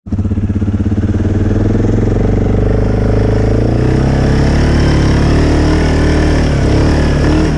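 ATV engine running, with a throbbing pulse over the first couple of seconds that then evens out into a steady run.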